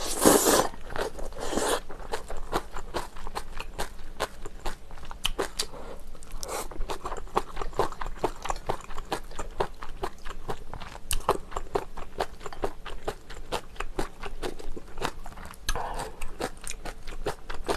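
A short slurp of ramen noodles, then steady chewing with many small wet clicks of the mouth.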